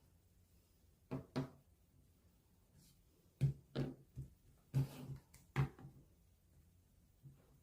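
A series of short, light knocks and clicks, about eight in all, in two small clusters: objects being handled and set down on a hard surface.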